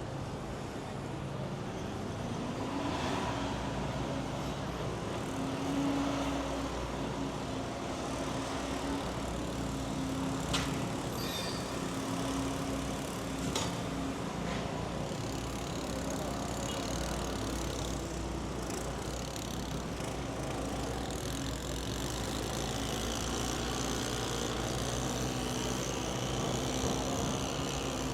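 City street traffic: vehicle engines running with a steady low hum and road noise, with two sharp clicks a few seconds apart near the middle.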